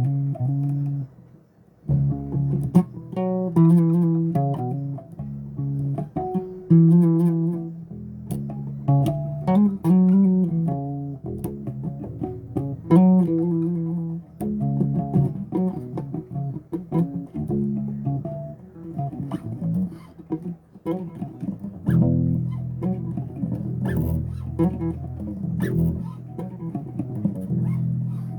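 Bass guitar played solo: a run of plucked notes and chords in a melodic line, with a short pause about a second in.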